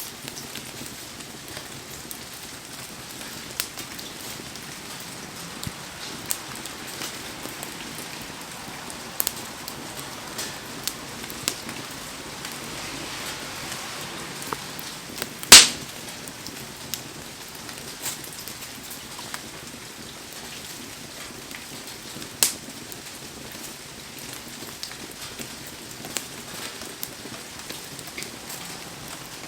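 Heavy rain falling steadily around a wood campfire, with scattered sharp crackles and pops. One loud pop comes about halfway through, and a smaller one comes about two-thirds of the way in.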